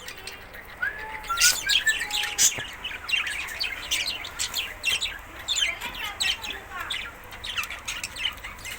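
Budgerigars chirping and chattering, many quick high chirps overlapping without a break.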